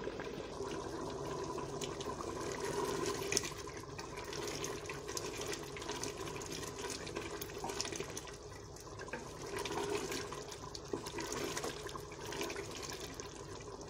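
Black chickpea masala sizzling with fine crackles in hot oil in an open pressure cooker on high flame, as its last water cooks off during frying.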